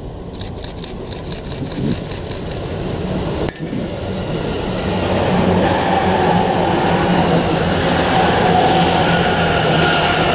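JR East E653 series electric train passing close by: the running noise of its wheels on the rails, with a steady hum, grows louder from about four seconds in as the train draws level.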